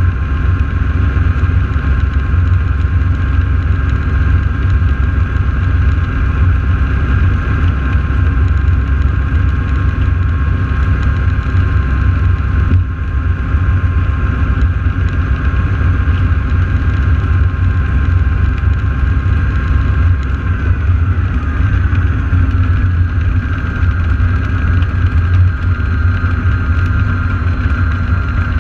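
North American AT-6 Texan radial piston engines running at idle on the ground before takeoff: a steady deep rumble with a higher whine on top. About twenty seconds in, the whine drops in pitch.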